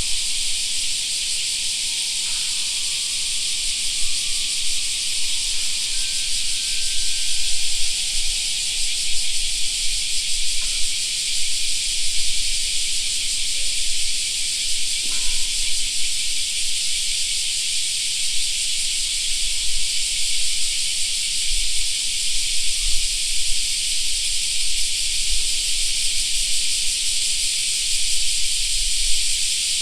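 A dense chorus of cicadas: a steady, high, hissing drone that does not let up. A few faint thin tones show in the first several seconds, with a low rumble underneath.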